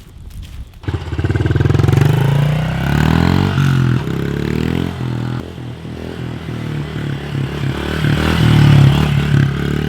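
Pit bike's small single-cylinder four-stroke engine, coming in suddenly about a second in and revving up and down several times, its pitch rising and falling with the throttle.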